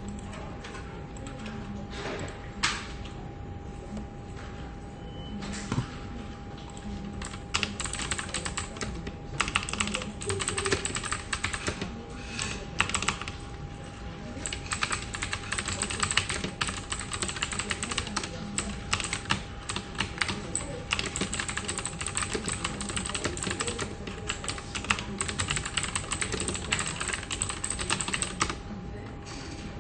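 Computer keyboard typing: a few separate keystrokes at first, then fast, continuous typing from about a quarter of the way in, easing off just before the end. A steady faint hum runs underneath.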